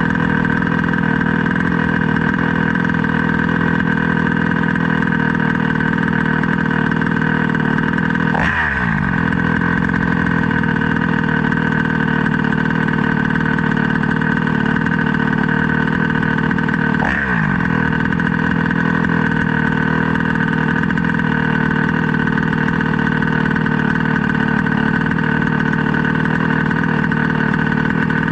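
Small 29cc two-stroke reed-valve engine running at a steady high pitch, with two fast pass-bys about eight and seventeen seconds in, each a quick drop in pitch.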